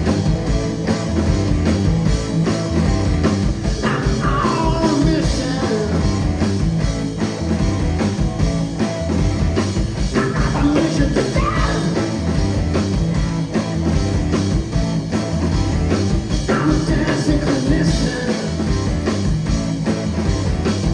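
Rock band playing live: a steady drum-and-bass groove with electric guitar, and a few sliding melodic lines over the top between the vocal phrases.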